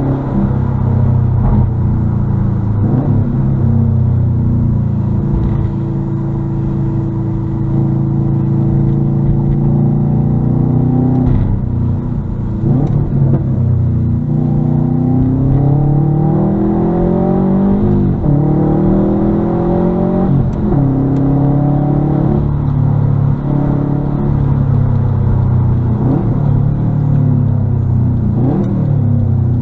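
Muffler-deleted exhaust of a 2021 Subaru WRX STI's turbocharged 2.5-litre flat-four, heard while driving. It holds a steady note at first, then climbs in pitch under acceleration, drops abruptly at a gear change about eighteen seconds in, and climbs again.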